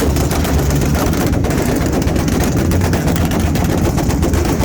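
Car engine held on a two-step launch limiter: a rapid, unbroken string of exhaust pops and bangs over the engine's steady low drone.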